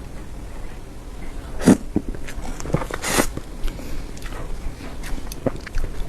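Close-miked eating sounds of soft cream cake: wet chewing and mouth clicks at irregular intervals, the loudest about one and a half seconds in, with a brief noisy rush about three seconds in.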